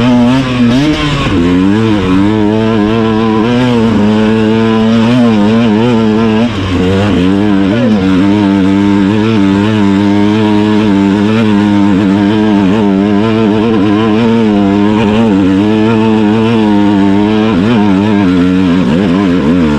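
Enduro dirt bike engine revving under the throttle while being ridden, its pitch rising and falling continually, with a brief drop about six and a half seconds in.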